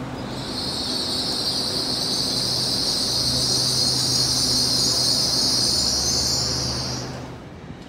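Train running on the track, with a strong high hiss over a steady low hum; the hiss stops sharply about seven seconds in and the sound drops, leaving the hum.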